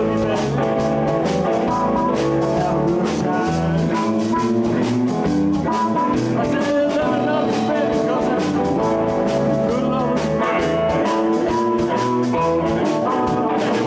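Live blues band playing an instrumental passage: electric guitars, bass and drum kit, with a steady beat of drum hits.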